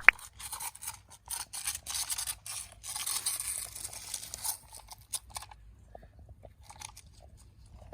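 Scraping and rubbing with many sharp clicks, busy for the first four and a half seconds and then thinning to scattered clicks. A brief sharp tone sounds right at the start.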